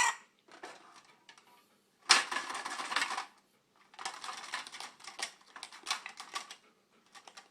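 Macaw's beak working at plastic credit cards in a box: bursts of rapid clicking and crackling. The loudest burst is about two seconds in, and a longer, clattering stretch follows.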